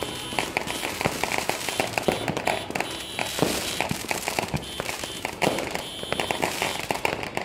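Firecrackers and fireworks going off: a dense, irregular run of overlapping pops and bangs.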